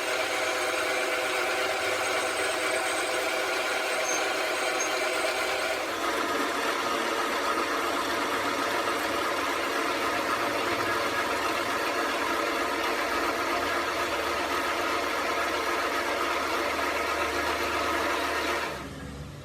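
An engine running steadily. Its tone shifts about six seconds in, and it falls away near the end.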